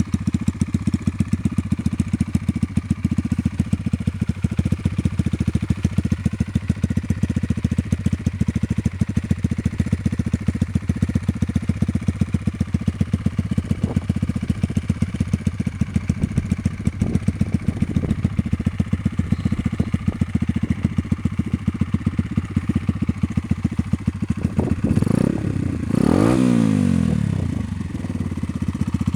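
Sachs MadAss motorcycle's 125cc Honda single-cylinder engine idling with a steady, even beat. Near the end the throttle is blipped, and the pitch rises and falls back to idle.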